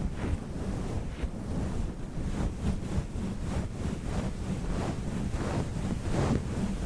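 Fluffy microphone cover rubbed and brushed directly over the microphone: a dense, muffled rumble like wind on a mic, with repeated swishing strokes about two a second.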